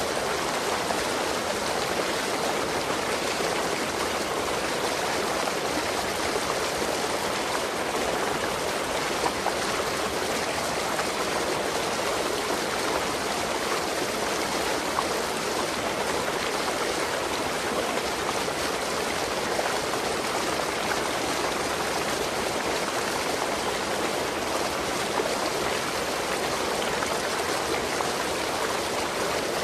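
Waterfall: water pouring over the falls in a steady, unbroken rush.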